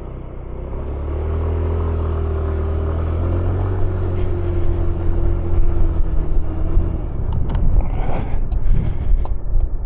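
Motorcycle engine pulling away and picking up speed, growing louder about a second in. Wind gusts on the microphone break in over the last few seconds.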